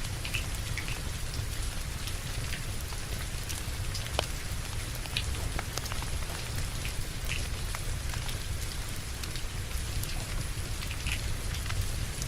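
Steady rain with a low rumble underneath, mixed with scattered sharp pops and clicks of a crackling wood fire; one pop about four seconds in is the loudest.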